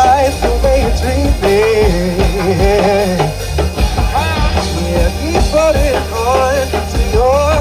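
Rock band playing live: drum kit and bass guitar keep a steady heavy beat under a wavering melody line that bends up and down in pitch.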